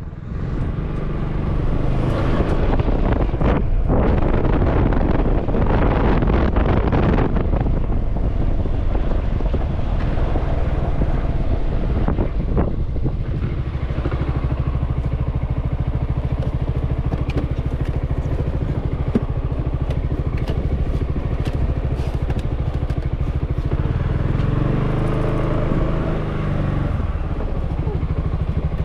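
Motorbike engine running steadily, with wind rushing on the microphone, strongest in the first several seconds, and a few light clicks and clatters in the middle.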